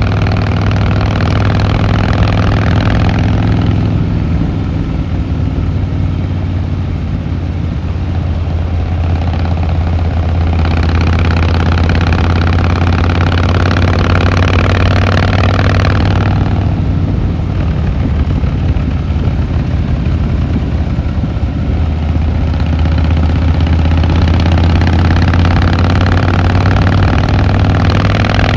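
Harley-Davidson Fat Boy Lo's V-twin engine and exhaust running on the move: a steady deep rumble, with three stretches where it turns brighter and harsher, near the start, from about 11 to 16 seconds in, and again near the end.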